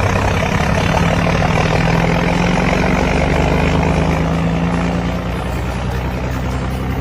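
Scania 113 truck's inline-six diesel engine running loud and steady, its pitch easing down slightly in the second half.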